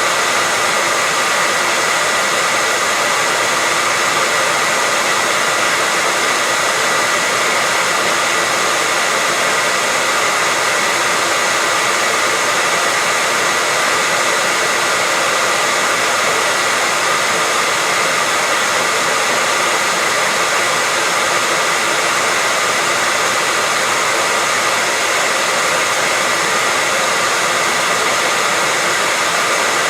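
Hair dryer running continuously at a steady speed, an even rushing of air with a constant whine, used as white noise to lull a baby to sleep.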